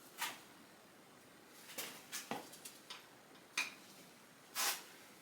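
Light, scattered clicks and clinks of hand tools and metal engine parts being handled during an LS1 V8 teardown, about seven in all, with a slightly longer noisy one near the end the loudest.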